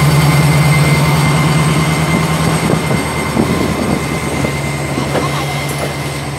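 Freight train rolling past: a steady, pulsing low hum from the locomotive and wagons, with a spell of wheel clatter and rattling near the middle, the whole sound easing off slightly as the train moves on.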